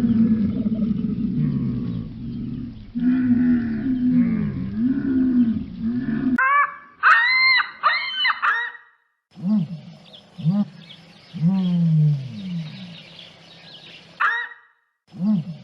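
Animal calls in several short clips cut together: low, drawn-out calls for the first six seconds or so, then a few brief high-pitched calls, then a run of short calls that fall in pitch.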